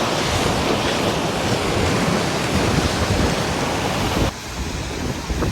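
Ocean surf washing steadily on the shore, with wind buffeting the microphone. Near the end the sound changes abruptly to a lower, rougher rumble.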